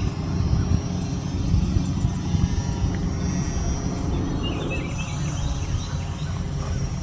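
Wind buffeting the microphone, with the faint steady whine of a small electric RC plane's motor and propeller in flight. A few bird chirps come in about four and a half seconds in.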